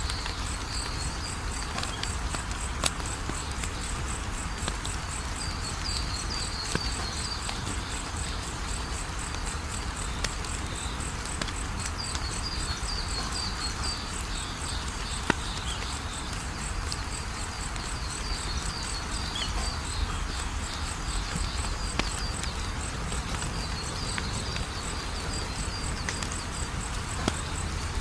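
Fire crackling in a fireplace, with a steady low rustle and a sharp pop every few seconds. Insects chirp in a fast, even pulse over it, with bursts of higher trills now and then.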